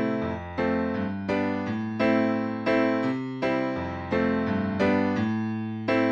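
Kurzweil K2000 synthesizer playing a piano-like keyboard patch with no effects. Chords over a bass line are struck about every half second to second, each one fading after it is struck.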